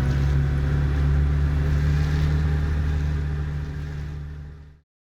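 Motorcycle engine running at a steady speed while riding, fading out near the end.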